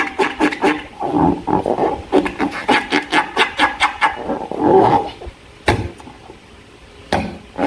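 Slime being squeezed and worked by hand, giving wet squelching swells and a run of quick sticky clicks and pops. It goes quieter about six seconds in.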